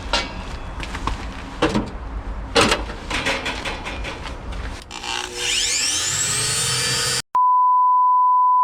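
Scattered knocks and clatter, then an electric motor starting with a whine that rises as it spins up, cut off near the end by a steady, loud high-pitched beep tone.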